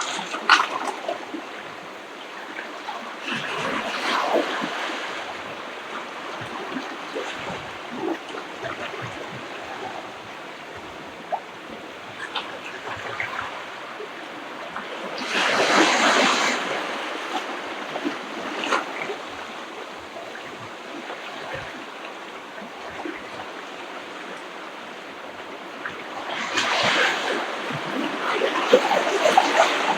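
Ocean surf breaking and washing up a beach: a steady wash of water that swells three times, about four seconds in, more loudly around the middle, and again near the end.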